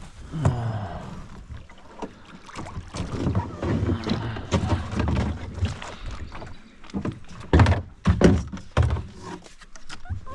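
Kayak on creek water: irregular paddle splashes and knocks against the hull, with two louder knocks about eight seconds in.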